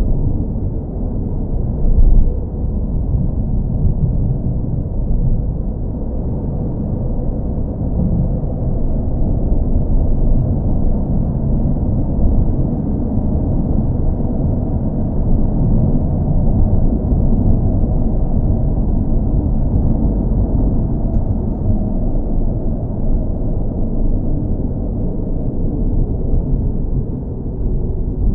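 Car engine rumbling steadily: a deep, even drone with almost no high hiss, and one brief louder swell about two seconds in.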